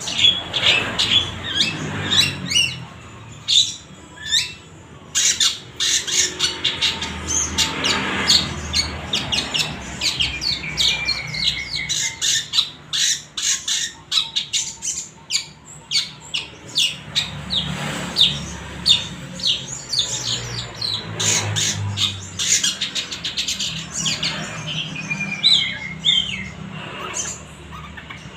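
Long-tailed shrike (cendet) singing: a fast, varied chatter of short harsh notes mixed with brief whistled slides, carrying on almost without a break.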